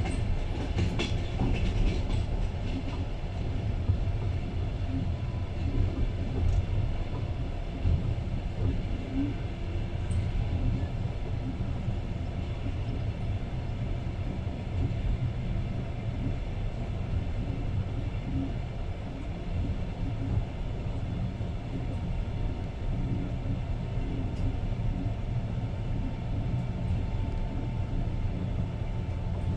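Passenger train running along the track, heard from inside the carriage: a steady low rumble of wheels on rails, with a few clicks just after the start.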